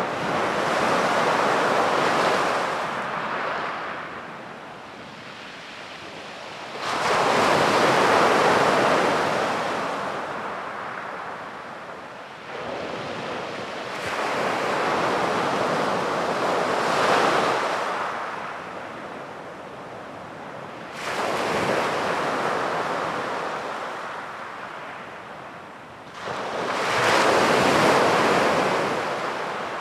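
Sea waves breaking on a beach and washing up the shore, about five surges in turn, each starting suddenly and fading away over several seconds.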